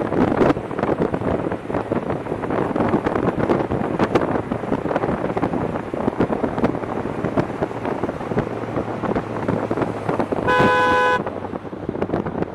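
Steady road and wind noise from a moving motorcycle, with a vehicle horn honking once near the end, a single short blast of under a second.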